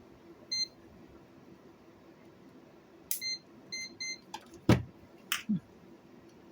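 Short, clear electronic beeps from a multimeter continuity check on the answering machine's fuses: one beep, then three more in quick succession a few seconds later. After the beeps come a few sharp clicks and one loud knock.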